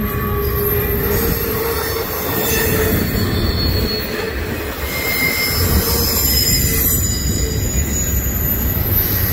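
Doublestack intermodal freight train's loaded well cars rolling past: a steady rumble of steel wheels on rail, with thin, high-pitched squealing tones above it.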